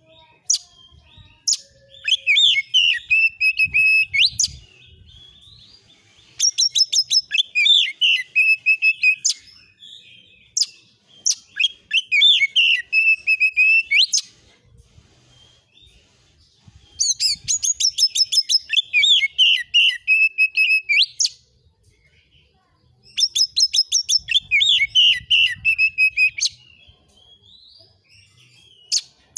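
Oriental magpie-robin (kacer) singing in five bursts of a few seconds each. Each burst opens with a string of rapid clicking notes and runs into loud, fast, varied whistled phrases. It is the excited, rapid-fire 'nembak' song used as a lure to provoke other magpie-robins into answering.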